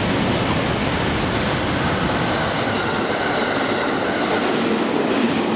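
A train passing close by, with a steady loud rush of wheel and running noise.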